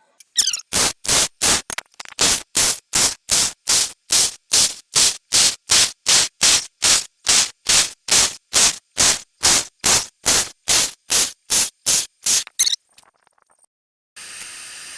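Arc welding on steel: the arc crackles in short, evenly spaced bursts, about three a second, and stops near the end. A steady hiss starts about a second later.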